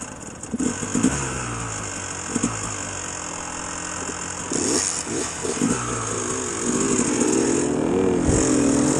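Dirt bike engine running while being ridden, its pitch rising and falling with the throttle and getting louder about two-thirds of the way in.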